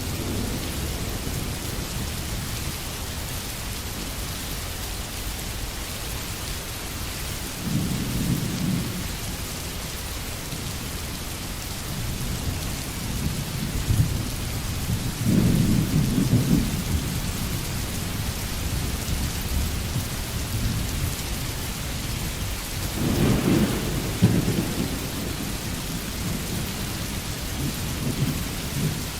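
Steady rain falling, with low thunder rumbling in several swells: a short one about a quarter of the way in, longer, louder rolls through the middle and about three-quarters of the way, and a faint one near the end.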